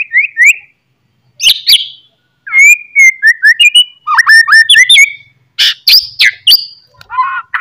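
A songbird in loud, varied song: quick slurred whistles and trills mixed with sharp cracking notes, in short phrases with brief pauses between them.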